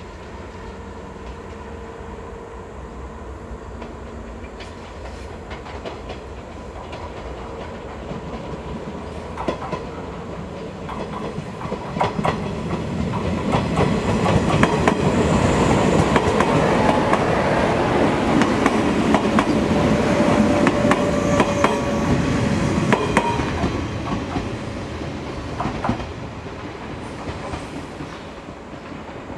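JR 381-series electric limited express train passing through a station without stopping. Its running noise builds as it approaches and peaks for several seconds with the wheels clacking over rail joints. It then fades as the train runs away.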